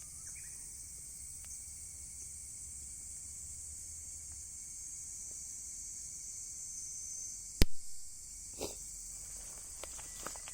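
Insects chirring steadily in a high, continuous chorus. A little past halfway, a single sharp pop comes from the burning driftwood, with a softer crackle about a second later.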